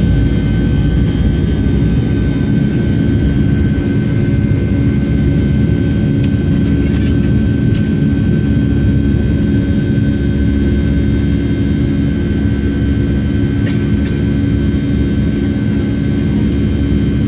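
Boeing 757-300's jet engines at high thrust during takeoff, heard from inside the passenger cabin: a steady loud low noise with a high, even whine over it. There are a few faint clicks.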